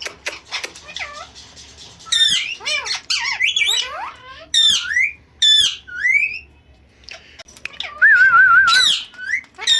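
Indian ringneck parrot calling: a run of shrill squawks and short whistled chirps that sweep quickly up and down in pitch, with a wavering trill about eight seconds in.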